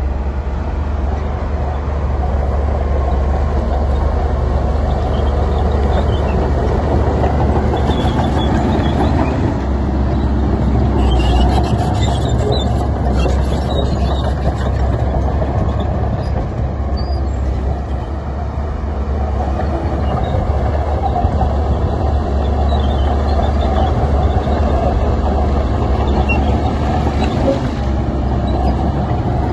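Heavy earthmoving machinery running steadily with a deep diesel rumble, with a spell of metallic rattling and clanking about a third of the way in.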